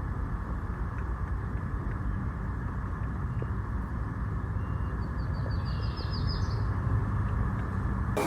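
A steady low outdoor rumble throughout. About five seconds in, a bird gives one short, rapid trill of high notes.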